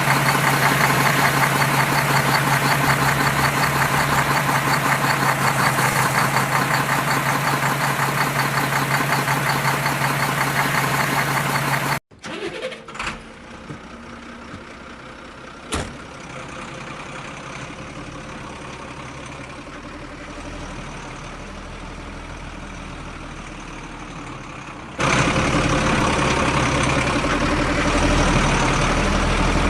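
Engine running steadily with a fast, even pulse, which cuts off suddenly. A quieter stretch with two sharp knocks follows, then engine running starts again.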